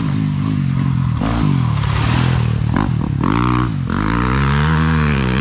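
Small pit bike engine revving, its pitch climbing and dropping several times as the throttle is worked.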